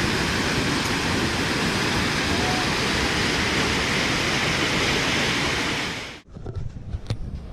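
Swollen, overflowing river rushing in flood: a loud, steady wash of water noise. It cuts off abruptly about six seconds in, leaving a much quieter stretch with a single click.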